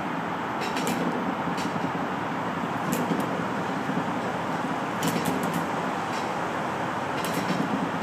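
Flooded Enjomor 6cc hit-and-miss model gasoline engine being turned over without catching, a steady mechanical churning with a few irregular sharp clicks.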